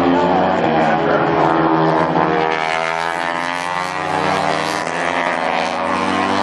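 MotoGP racing motorcycles at high revs passing the track, the pitch of their engines sliding as they go by, with another bike coming in near the end.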